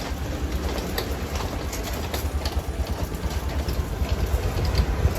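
Steady low rumble of wind and water aboard a sailboat under way at sea, with scattered light clicks over it.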